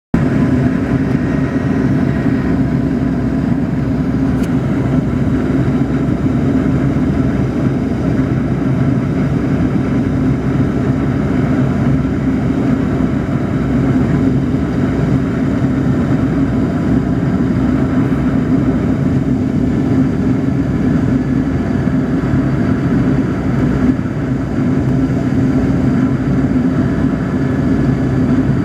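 Steady drone of a Yak-42D jet airliner's three D-36 turbofan engines and rushing air on the approach to landing, with a strong low hum and faint steady whines higher up.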